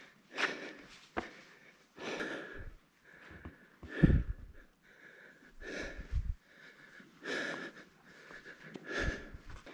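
A person's heavy breathing, close to the microphone, with a breath about every second and a half to two seconds, and a few low thumps of wind or handling on the microphone.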